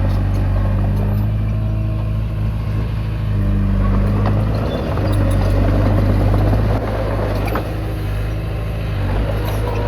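Komatsu D20P crawler bulldozer's diesel engine running steadily while working. Its note rises and falls a little, dropping slightly about seven seconds in.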